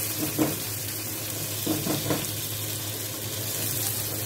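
Onions, garlic and tomatoes sautéing in a stainless-steel pan over a medium gas flame with a steady sizzle, and a few scrapes of a spatula stirring them: once about half a second in and a couple of times around two seconds.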